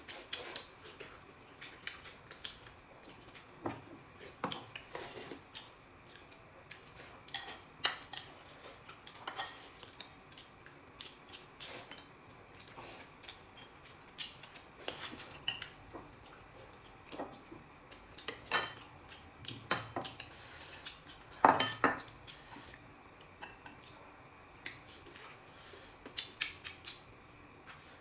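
Eating utensils clinking and scraping against dishes at irregular intervals, with one louder clatter about three quarters of the way through.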